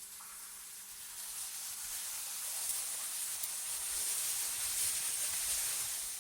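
Synthetic wind ambience: a hissing gust swells over the first few seconds, holds, then eases off near the end, over a faint steady low hum.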